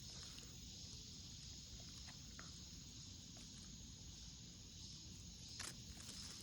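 Faint, steady chorus of summer insects, a continuous high-pitched trill, with a few soft clicks of rustling, one sharper a little before the end.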